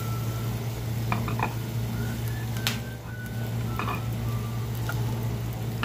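Sliced shallots and garlic sizzling in hot oil in a frying pan, with a few light clicks over a steady low hum.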